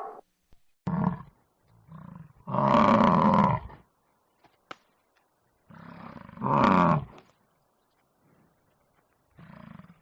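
A big cat giving a series of short, rough roars or growls, four or five in all with gaps between them. The longest come about three seconds in and again near seven seconds.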